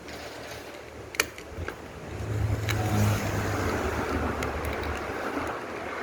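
A few sharp clicks, then a low motor hum that starts up about two seconds in and keeps running steadily.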